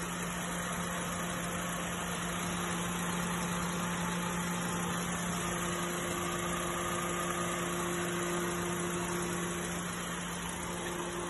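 Proton CamPro four-cylinder petrol engine idling steadily and smoothly on a freshly welded exhaust with a larger silencer, no longer sounding like a tractor.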